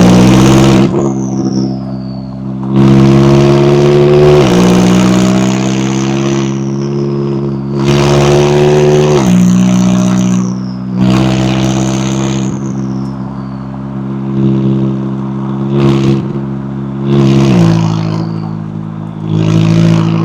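McLaren 570S twin-turbo V8 accelerating hard through the gears, its exhaust note climbing in pitch and dropping sharply at each upshift several times over. A high falling whistle follows several of the shifts.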